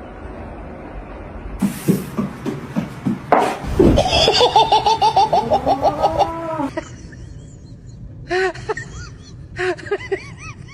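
A person laughing hard in a rapid run of ha-ha pulses, then in shorter bursts of laughter near the end.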